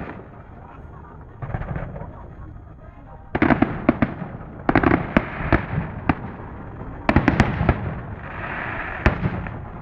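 Fireworks display: clusters of shell bursts and sharp cracks come in volleys about three and a half, five and seven seconds in, over a low rumble. Near the end there is a hissing crackle.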